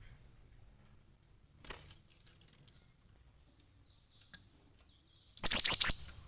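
Cinereous tit (glatik batu) call: after several seconds of near silence, a short, loud burst of about five rapid high notes near the end.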